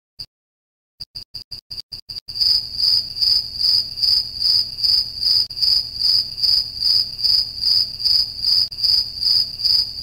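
Cricket chirping, a single high-pitched trill: a few separate short chirps at first, then from about two seconds in a steady run of trills pulsing about three times a second.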